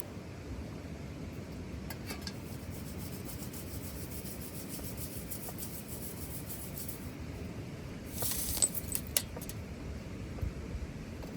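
Light metallic clinks and rattles of cookware, a short cluster about eight to nine and a half seconds in, over a steady low rushing outdoor background.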